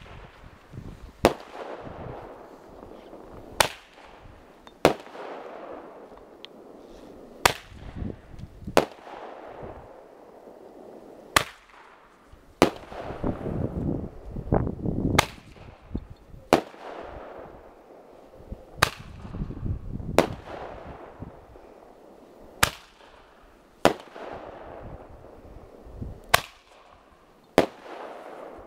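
A Roman candle firing, shot after shot: about fifteen sharp bangs, coming roughly in pairs a second or so apart, with a fading hiss after each.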